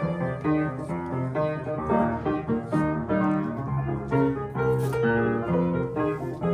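Solo piano playing a flowing melodic interlude, notes changing in quick succession.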